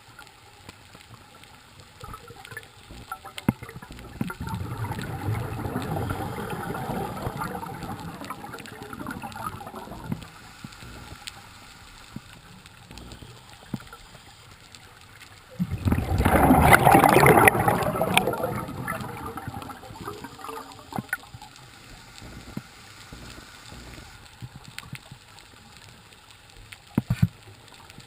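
Scuba diver's exhaled bubbles gurgling past the camera underwater, in two bursts: a softer one a few seconds in and a louder one just past the middle, with quiet hiss between.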